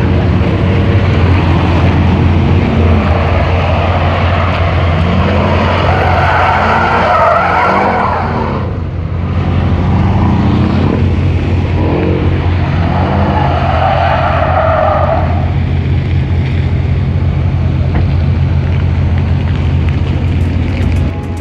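Porsche 911 Carrera GTS (991) flat-six with an IPE exhaust running hard, with its tyres squealing in two long stretches, about six and thirteen seconds in, as the car is spun in donuts.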